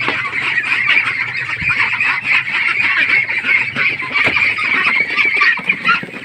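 A flock of ducklings peeping continuously, many high calls overlapping into a constant chatter.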